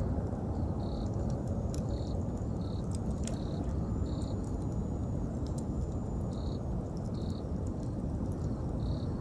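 Campfire crackling, with scattered sharp pops over a steady low rumble, while an autumn insect chirps in short pulses about once a second.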